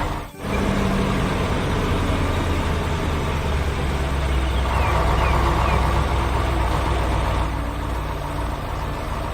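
Heavy construction machinery engine running steadily, a low even hum, with a brief dropout about a third of a second in.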